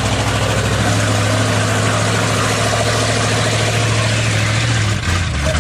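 Truck's gasoline engine running steadily at idle. About five seconds in, its steady note breaks up and changes.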